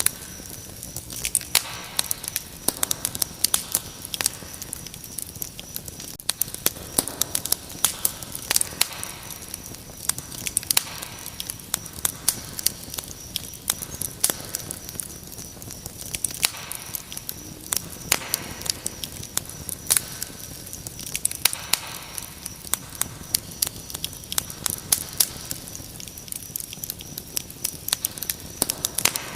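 Wood fire crackling with frequent sharp pops, over a steady high trill of crickets.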